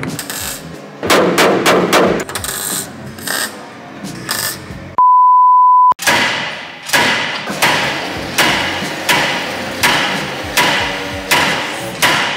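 Hammer blows on car-body sheet metal, irregular at first and then a steady run of about one ringing strike every three quarters of a second. A loud, steady beep tone lasts about a second midway.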